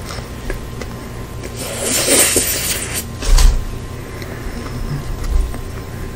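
Close-miked chewing of a crispy fried-chicken burger, with a long crunchy stretch about two seconds in and a few sharper crunches later, over a low steady hum.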